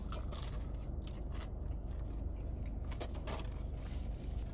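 Biting and chewing a fried chicken tender dipped in ranch: scattered small crunches and mouth clicks over a low steady hum.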